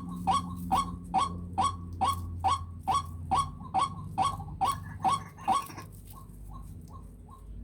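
A bird calling in a steady, evenly spaced series of short notes, each dropping slightly in pitch, about two and a half a second. The calls grow fainter after about five and a half seconds.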